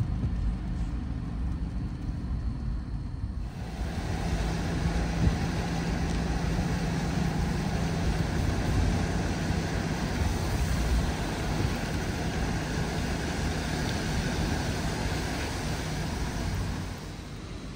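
Car driving on a rain-wet road, heard from inside the cabin: low road and engine rumble. About three and a half seconds in, a steady hiss joins it and lasts until near the end.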